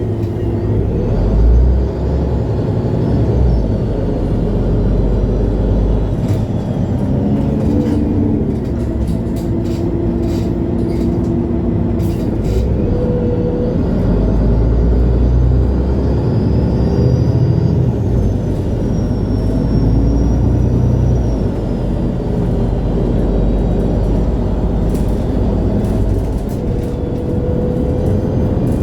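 A 2011 MAN Lion's City G articulated city bus running, heard from inside the passenger cabin: a steady low rumble with diesel engine and drivetrain tones that rise and fall several times as it accelerates and changes speed. A run of short rattling clicks comes in the middle.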